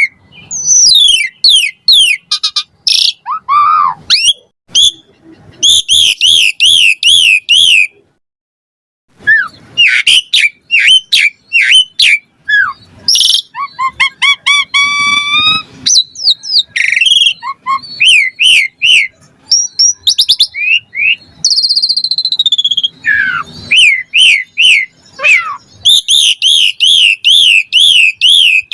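Asian pied starling (jalak suren) singing a fast, varied song of loud whistles, wavering trills and repeated chirps, with a brief pause about eight seconds in.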